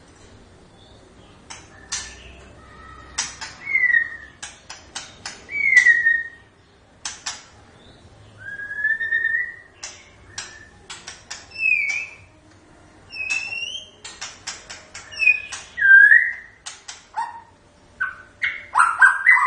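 White-rumped shama (murai batu) singing: short, clear, slurred whistles, some rising and some falling, mixed with many sharp clicks. Near the end it breaks into a fast, dense run of varied notes.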